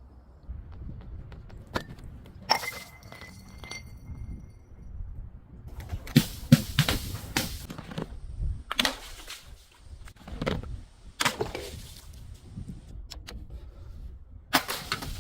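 A series of separate knocks and thuds from hard objects, about eight hits spread unevenly. The hit about two and a half seconds in rings on with a clear, steady tone for a couple of seconds.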